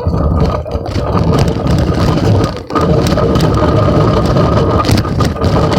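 A phone rattling and jostling in a child's bicycle basket while riding, over a dense rumble of wind and tyres on the pavement, with a thin steady whine underneath.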